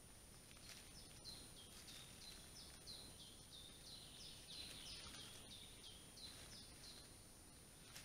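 A songbird singing faintly: a run of repeated high notes, each sliding downward, about two a second.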